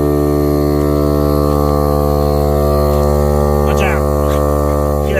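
Small air compressor motor running with a steady, even hum while pumping air into a flat car tire that is slow to take air.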